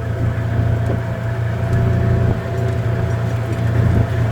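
A vehicle engine running steadily: a strong, even low hum with a faint, steady whine above it.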